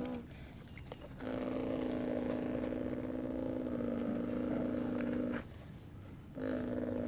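Motor of a radio-controlled construction model running with a steady, even-pitched hum. It cuts out twice, for about a second each time, as the controls are released, then starts again.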